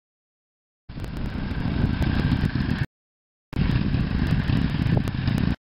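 Honda VF500F's V4 engine running, heard in two stretches of about two seconds each, each starting and stopping abruptly, with a gap of silence between them.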